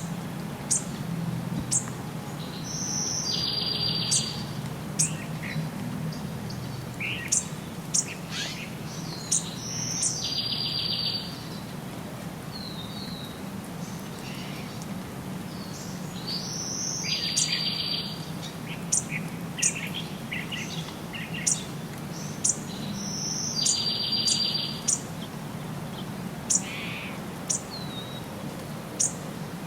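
Songbirds calling: a buzzy trill lasting about a second comes back roughly every seven seconds, among many short, sharp, high chirps, over a steady low background rumble.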